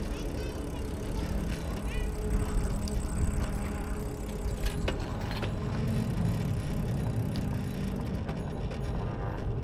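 Street noise heard from a moving bicycle: a steady low rumble of wind and road noise with passing car traffic, and a few faint short clicks and chirps over it.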